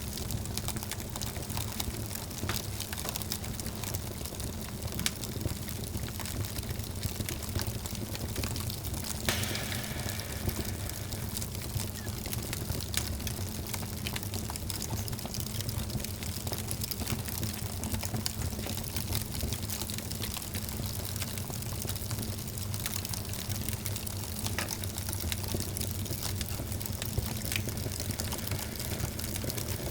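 Wood fire burning in a fireplace: a steady low rumble of flames with frequent small crackles and pops throughout, and a brief louder hiss about nine seconds in.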